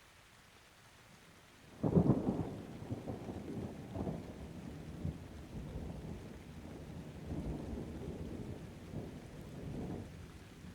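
A thunderclap breaks in suddenly about two seconds in, then rolls on as a long, uneven low rumble with several swells, fading away near the end.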